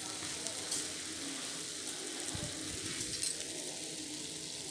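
Chicken kasa, a thick dry-fried chicken curry, sizzling in a frying pan: a steady sizzle with a few faint pops.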